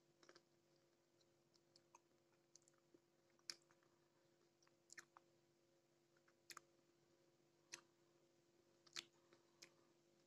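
Faint chewing of firm, unripe mango pieces: sharp wet crunches and mouth clicks every second or so, over a faint steady hum.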